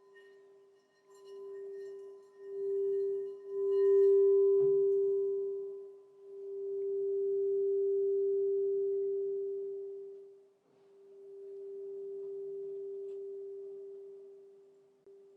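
Crystal singing bowl sounding one steady, pure tone that swells and fades in slow waves, with a light knock about four and a half seconds in.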